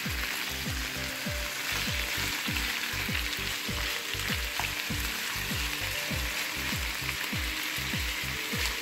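Chicken breast pieces sizzling in hot oil and soy sauce in a nonstick frying pan, stirred with a plastic spatula. A low pulsing runs underneath, about three beats a second.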